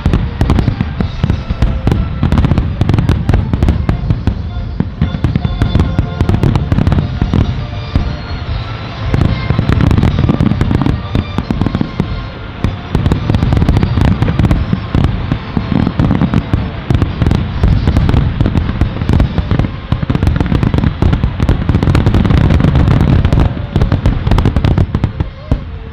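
Aerial fireworks going off in a dense, continuous barrage of deep booms and crackling bursts, the closing finale of the display, cutting off near the end.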